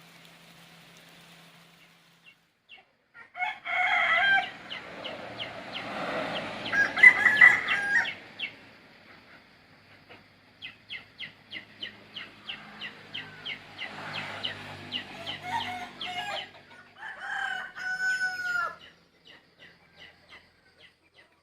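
Roosters crowing several times, with a run of quick, evenly repeated clucks in between.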